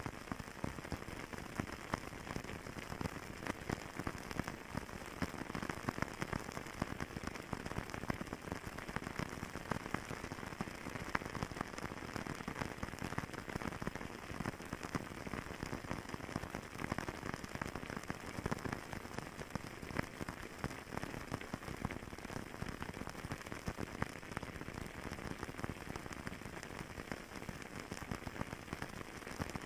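Fireplace crackling: many small pops and snaps over a steady hiss of burning wood.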